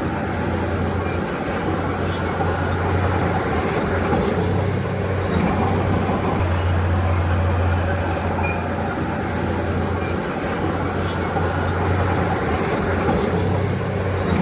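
Bulldozer diesel engine running steadily with a low drone, with scattered brief high squeaks and clinks over it.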